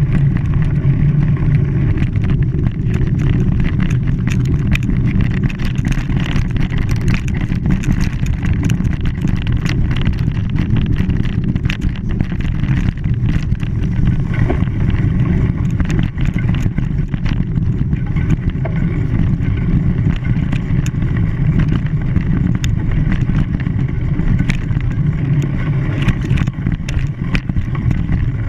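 Steady low rumble of an engine-driven vehicle in motion, with scattered clicks and knocks throughout.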